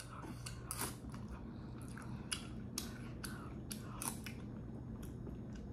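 Close-mic chewing of spicy rice cakes with soybean sprouts: a string of irregular wet clicks and crunches from the mouth, over a low steady hum.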